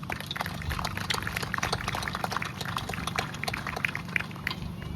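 Scattered applause from a small crowd, a few people clapping unevenly, thinning out near the end, over a steady low hum.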